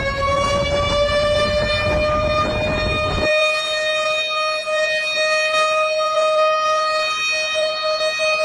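Warning siren sounding one long tone that rises slightly in pitch at first, then holds steady. A rumbling noise under it stops suddenly about three seconds in.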